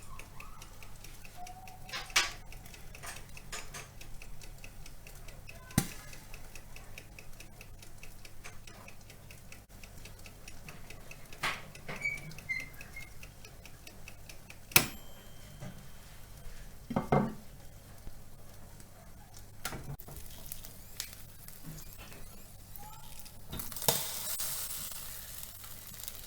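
Marinated chicken thighs sizzling on a barbecue grill, with scattered clinks and knocks of metal utensils; the sizzling grows louder near the end.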